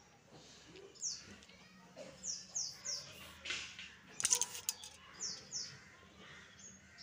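Birds chirping in short falling chirps, once about a second in, then in runs of two or three, over a metal spatula scraping and knocking against a metal kadai as a thick vegetable mix is stirred; the loudest scrape comes a little over four seconds in.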